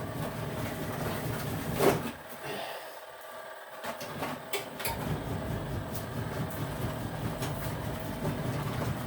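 Portable washing machine's motor running with a steady low hum, cutting off about two seconds in after a sharp knock and starting again about five seconds in, with a few clicks in the gap.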